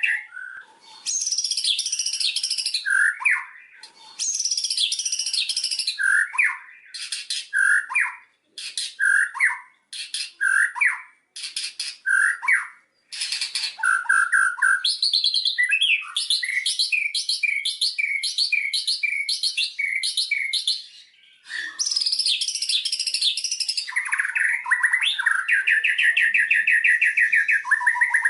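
White-rumped shama (murai batu) singing a long, varied song of rich whistled phrases and fast trills with short pauses between them. In the middle is a run of evenly repeated notes, about two a second.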